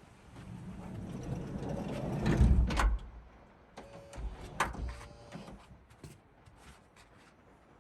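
A van's sliding door rolling along its track, the rumble building and ending in a sharp close about three seconds in, followed by several light knocks and clicks.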